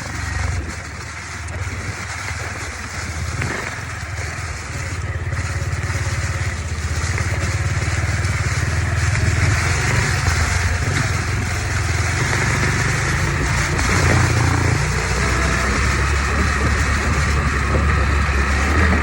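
Dirt bike engine running, growing louder over the first half and stepping up again about three-quarters of the way through.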